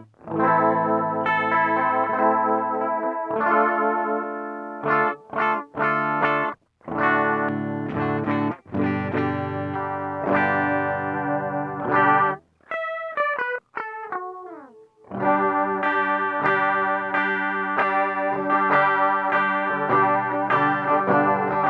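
Electric guitar played through a TC Electronic Flashback delay and looper pedal: chords and short choppy stabs. A little past the middle, a few notes slide down in pitch before ringing chords take over.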